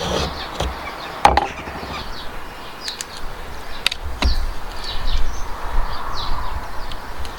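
Several sharp knocks on timber at uneven intervals, the loudest about a second in, with birds chirping in the background.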